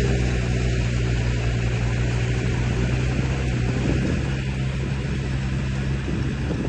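Radio-controlled model construction vehicle running steadily: a low engine-like hum with a hiss over it and a brief rise in pitch about four seconds in.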